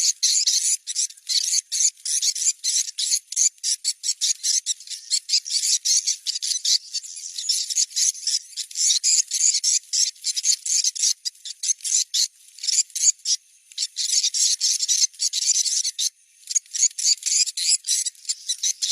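Recorded swiftlet calls played as a location-check lure: a dense, rapid, high-pitched twittering of chirps with short breaks. The sound is played at a prospective site to see whether wild swiftlets respond, as a test of where to build a swiftlet house.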